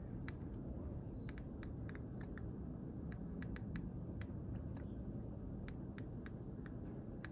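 Hohem iSteady M6 smartphone gimbal clicking as it is operated: sharp, irregular clicks, about three a second, over a low steady hum. This is the fault the owner is showing.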